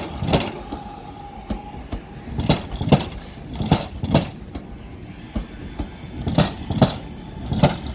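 Northern passenger train pulling out slowly, its wheels clacking in pairs over rail joints above a low running rumble.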